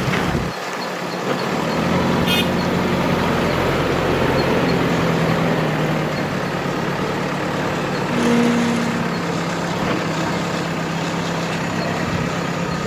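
Heavy diesel engine of earthmoving machinery running steadily under load. A brief high squeak comes about two seconds in, and a short low tone sounds about eight seconds in.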